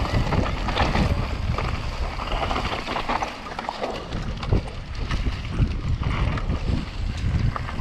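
Wind buffeting the microphone of a mountain bike descending fast, with the tyres running over rough, rocky trail and the bike rattling in many short knocks.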